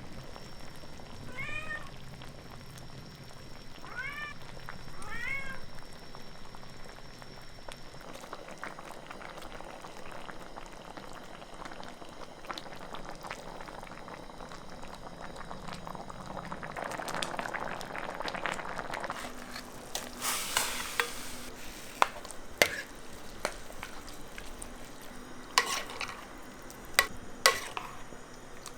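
A cat meows four times in short, rising calls over the first few seconds. Then comes a crackling cooking hiss that swells and fades, followed by several sharp knocks near the end.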